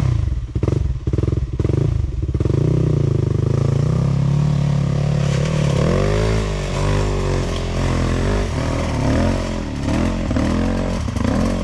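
Two-stroke enduro motorcycle engine, close by: it fires unevenly for the first couple of seconds, then settles into steady running. The revs rise and fall twice, about halfway through and again near the end.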